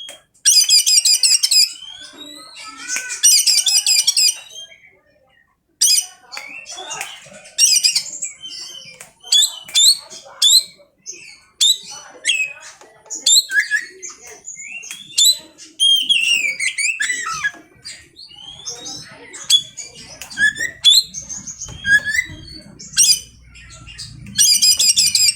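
Oriental magpie-robin (kacer) singing a varied song of clear whistled notes and pitch glides. Three harsh, buzzy rattling phrases break into it: about half a second in, around three seconds in, and again at the end.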